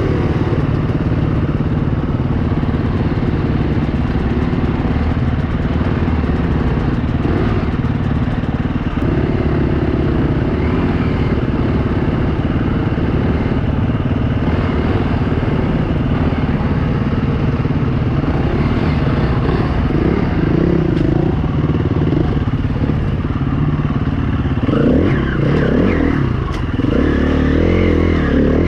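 Onboard sound of a 2016 KTM 350 EXC-F dirt bike's single-cylinder four-stroke engine running steadily, the revs rising and falling more in the last few seconds.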